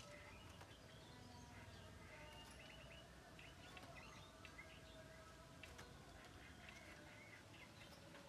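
Javan myna giving faint, scattered short chirps and clicking notes.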